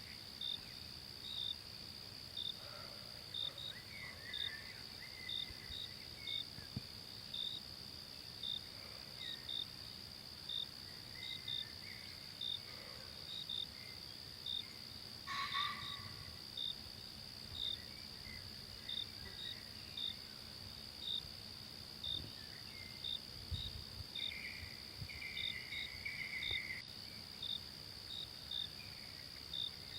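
Forest insects: a steady high buzz with a cricket-like chirp repeating about three times every two seconds. Scattered bird calls, one of them louder about halfway through.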